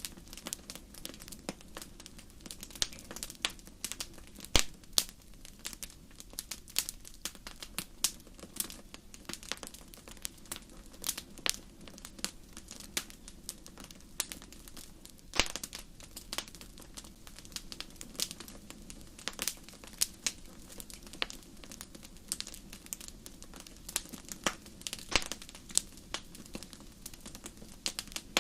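Campfire crackling: irregular sharp pops and snaps, several a second, over a faint steady low background.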